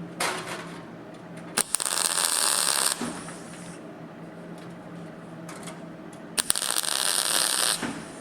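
Welding arc crackling through two tack welds on sheet steel, each lasting about a second and a half, the second beginning about six seconds in. A steady low hum runs underneath.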